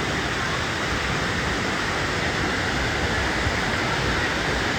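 Waterfall: water pouring down a mountainside, a steady, even rush.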